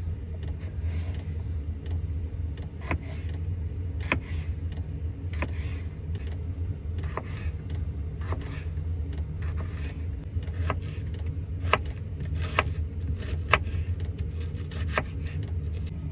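Butter melting in a hot pan, giving off scattered sharp pops and crackles, over a steady low hum.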